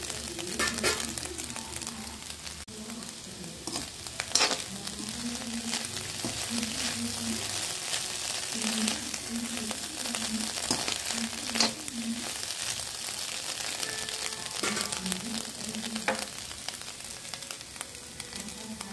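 Scrambled egg and onions frying in a pan with a steady sizzle, stirred with a metal spoon that now and then scrapes sharply against the pan.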